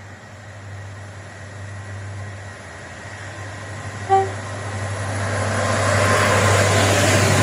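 Diesel locomotive-hauled train approaching and passing close by, its engine rumble and wheel noise growing steadily louder. One short horn toot sounds about four seconds in.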